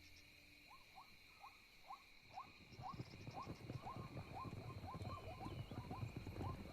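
Night bush ambience: a steady high insect drone, over which an animal repeats a short rising chirp about twice a second. From about two and a half seconds in, a dense, growing patter of low thuds and rustling joins in, like animals moving.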